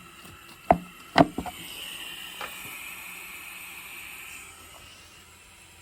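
Two sharp knocks, then a steady hiss of compressed air from a leak-down tester escaping through the Yamaha TTR250's airbox, fading near the end: the sign of air leaking past the intake valves.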